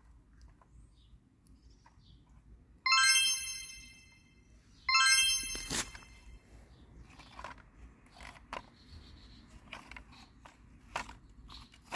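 Two short, bright electronic chime tones about two seconds apart, each fading away, followed by a sharp click and scattered light clicks and taps.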